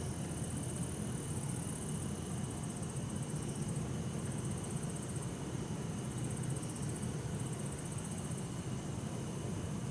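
Bell crickets (suzumushi) and other insects trilling, the highest trill coming in repeated bursts of about a second with short gaps, over a steady low hum of distant city traffic.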